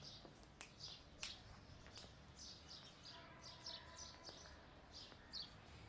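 Faint birds chirping over and over, short high chirps several times a second, with a few sharp clicks.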